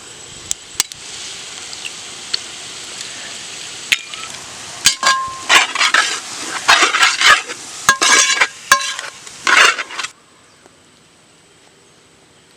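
Onion-tomato masala frying in coconut oil with a steady sizzle and a few sharp taps, then a metal spatula scraping and clinking against the pan as the eggs are stirred in, which stops suddenly about ten seconds in.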